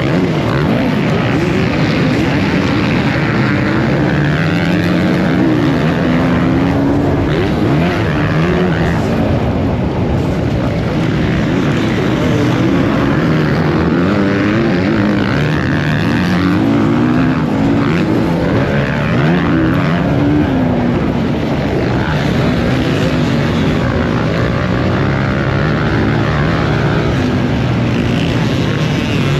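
Motocross bike engines running hard, their pitch rising and falling again and again as the throttle is worked and gears change.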